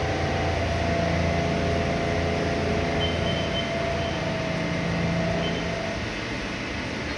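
CNC milling machine running with a steady hum of several held tones; the tones stop about six seconds in, leaving a quieter noise.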